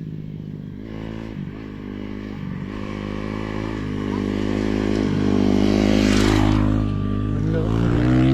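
Dirt bike engines approaching along the path, growing steadily louder and changing pitch as the riders work the throttle, loudest from about the middle on.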